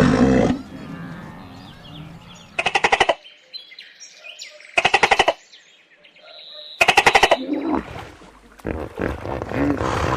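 Animal calls: three short, very rapid rattling bursts about two seconds apart, followed near the end by a run of shorter irregular calls.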